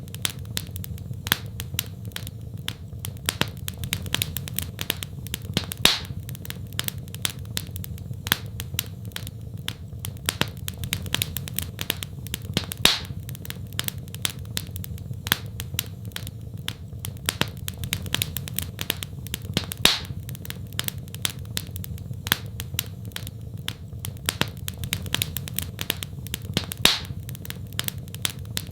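Fireplace fire crackling: a constant patter of small crackles over a steady low rumble, with a louder pop about every seven seconds.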